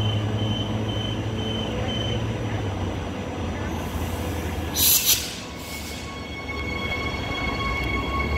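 A six-car electric multiple-unit passenger train (EMUs 53 and 126) at the platform, running with a steady low hum. About five seconds in come two short, loud hisses of air. A steady electric whine then sets in as the train gets under way.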